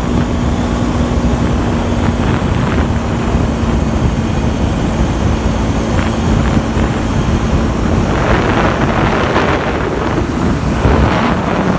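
Motorbike running steadily on a ride, with heavy wind rumble on the microphone. The engine's steady hum fades about eight seconds in, as a rushing noise grows louder.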